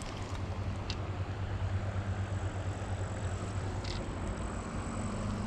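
Steady outdoor background noise: an even rush with a low, steady hum beneath it, and a couple of faint light clicks.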